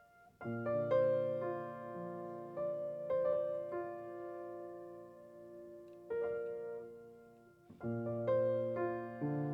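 Piano playing the slow introduction of a song: chords struck and left to ring and fade, with fresh chords about half a second in, around six seconds in and near the end.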